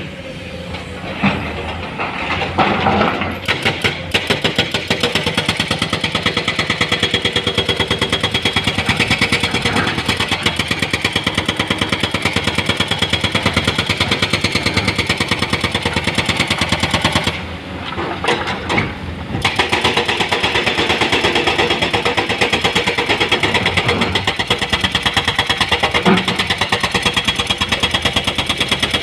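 Heavy diesel engine of an excavator or dump truck running with a fast, even beat. There are a few irregular knocks in the first few seconds, and the sound dips for about two seconds past the middle before picking up again.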